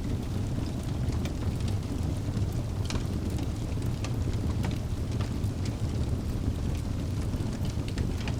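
Wood fire burning in a fireplace: a steady low rumble of flames with irregular sharp crackles and pops from the burning logs, several of them each second.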